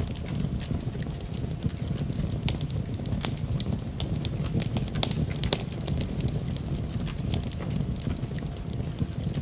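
Wood fire burning in a fireplace: a steady low rumble of flames with frequent irregular sharp crackles and pops of burning wood.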